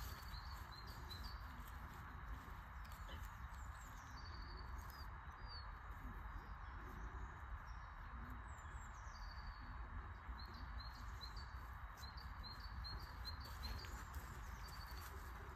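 Small birds chirping in short, high, repeated notes, with a quick run of chirps near the end, over a steady outdoor background rumble.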